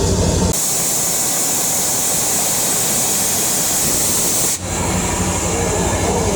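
Steam locomotive letting off steam: a loud, high hiss that starts suddenly about half a second in and cuts off sharply after about four seconds, with a low mechanical rumble before and after it.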